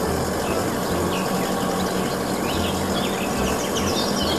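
Small birds chirping in quick, short repeated calls, busiest in the second half, over a steady outdoor background noise.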